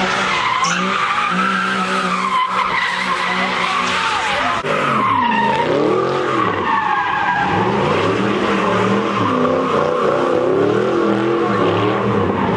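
Car drifting at a meet: its engine revs rise and fall over and over, with a continuous tyre squeal as it slides.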